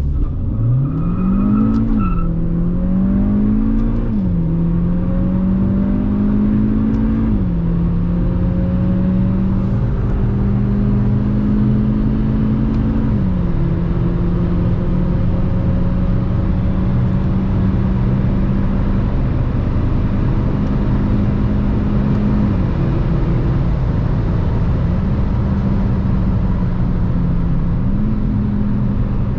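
Skoda Fabia vRS Mk2's 1.4 TSI four-cylinder pulling hard from a standstill under full throttle. Engine speed climbs and drops quickly at three upshifts in the first seven seconds or so, then the engine settles to a steady cruise with small rises and falls in speed.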